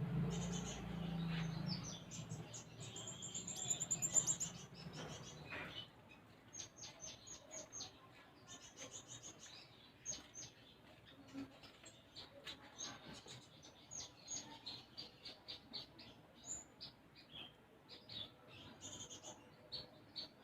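Small songbird (konin) singing in quick, short, high chirps, its song filled with imitated tree sparrow calls. For the first six seconds or so the twittering is dense, with a fast trill and a low hum under it; after that come separate sharp chirps, several a second.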